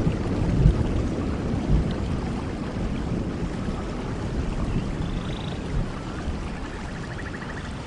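Vehicle driving along a road: a low, gusty rumble of road and wind noise that slowly fades.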